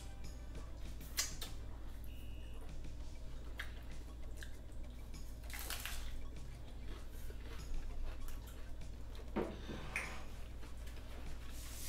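Hard-shell tacos being bitten and chewed close to the microphone: scattered crunches and wet mouth clicks, with a longer crunching bite about six seconds in, over a low steady hum.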